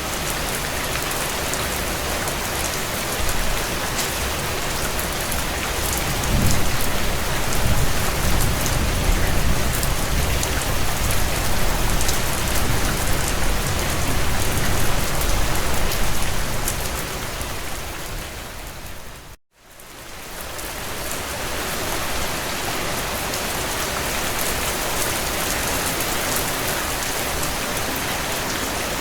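Steady heavy rain on a window, with faint crackles of a wood fire. A low rumble of thunder swells about six seconds in and lasts about ten seconds. Then the whole sound fades to a moment of silence about two-thirds of the way through and comes back.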